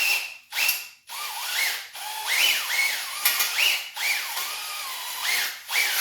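Two short hissing bursts, then an electric drill spinning a cylinder hone in a Ford 289 V8's cylinder bore: a continuous scraping with the drill's whine swooping up and down in pitch again and again as the speed varies, honing the freshly oiled cylinder wall to a crosshatch.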